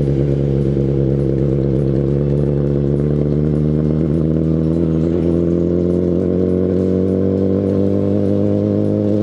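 Kawasaki Ninja ZX-10RR's inline four-cylinder engine running through an Akrapovic Evolution Line carbon full exhaust system, holding a steady low engine speed with an even pitch and no revving.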